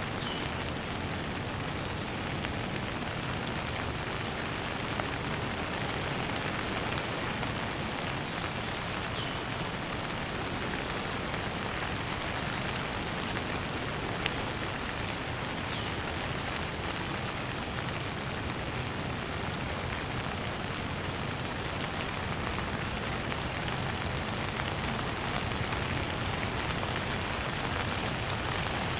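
Steady rain falling on a surface: an even, dense hiss of drops that holds at one level throughout.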